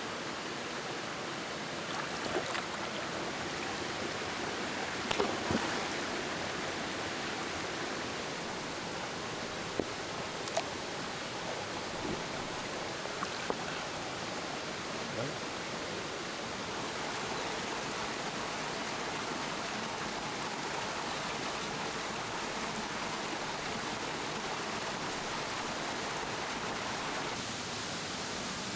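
Shallow rocky stream flowing steadily, with a few faint clicks and knocks in the first half.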